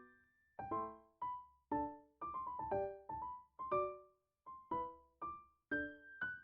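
Background piano music: single notes and chords struck in a gentle, unhurried melody, each one ringing out and fading, with a quick run of notes about two seconds in.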